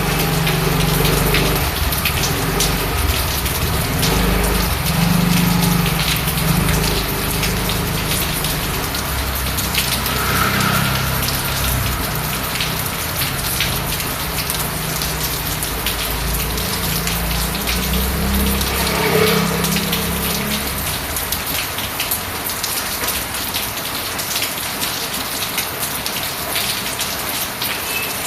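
Steady rain falling, a dense patter of drops, with a low rumble underneath that fades out about twenty seconds in.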